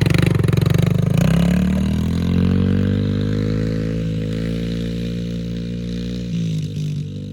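Yamaha TT-R110 dirt bike's single-cylinder four-stroke engine pulling away: its note rises over the first couple of seconds as the bike accelerates, then holds steady and slowly fades as the bike rides off. The pitch dips briefly near the end.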